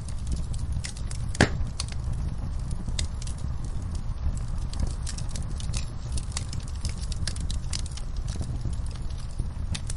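Wood fire burning in a fireplace, a steady low rumble with irregular crackles and pops throughout, and one louder snap about one and a half seconds in.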